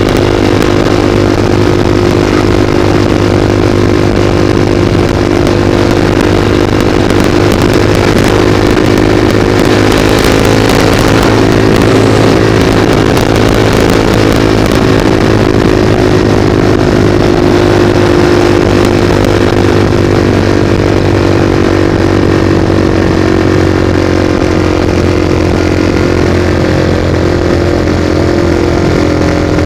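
Motorcycle engine running at steady revs while riding, with wind rushing over the camera microphone. The engine note shifts only slightly, and the wind noise is stronger for a few seconds about a third of the way in.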